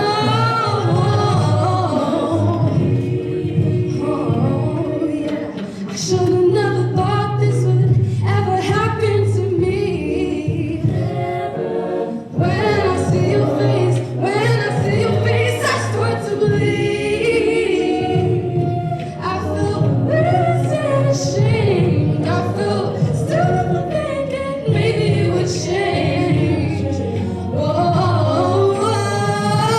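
A vocal group singing a song together, several voices in harmony with a steady low part underneath.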